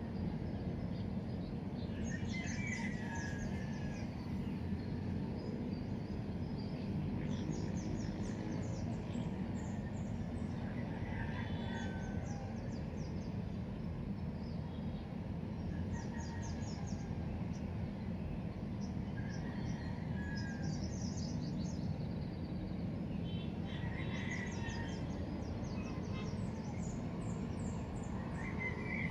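Birds chirping in short bouts every few seconds over a steady low background rumble.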